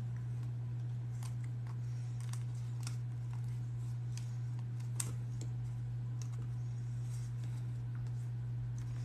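Scattered light clicks and taps from handling the leather tray and tools, with one sharper click about five seconds in, over a steady low hum.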